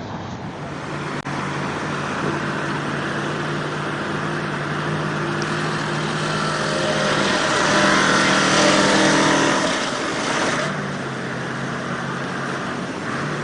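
An engine running steadily, then working harder and louder for about four seconds with its pitch shifting, before dropping back abruptly to a steady run.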